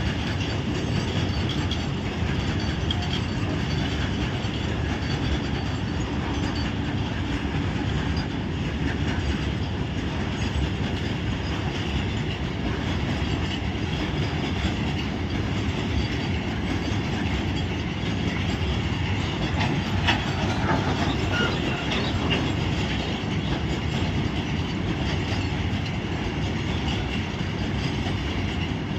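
Loaded freight train of capsule-shaped wagons rolling past, a steady rumble of steel wheels on rails with rapid clickety-clack over the rail joints. A few sharper clacks and a brief squeal come about two-thirds of the way through.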